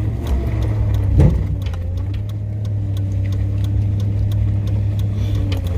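Truck engine running at a steady low speed, heard from inside the cab: a constant low rumble with a steady hum over it and faint ticking, and a single knock about a second in.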